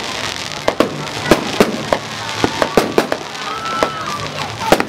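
Fireworks bursting in quick, irregular succession, sharp bangs over a continuous crackle, with a brief whistle near the end.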